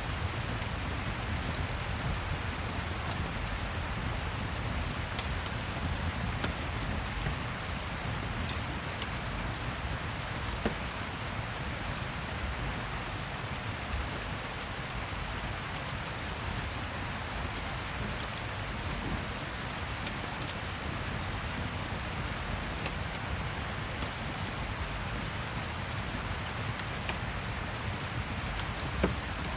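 Steady rain falling, with a fireplace crackling underneath and a couple of sharp pops from the fire, one about a third of the way in and one near the end.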